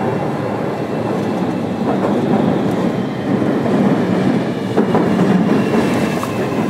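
Running noise inside the motor car of a JR Kyushu 305 series electric train: a steady rumble of wheels on rail with an occasional click, getting a little louder from about halfway.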